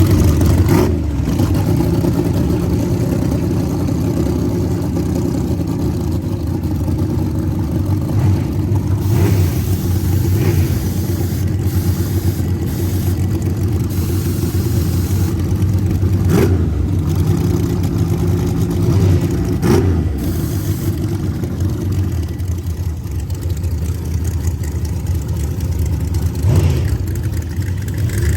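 Small-block nitrous V8 drag car engine idling with a steady drone, with a handful of short throttle blips that briefly raise the pitch.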